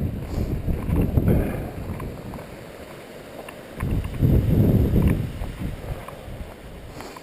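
Wind buffeting the microphone in gusts, a low rumble that swells near the start and again about four seconds in.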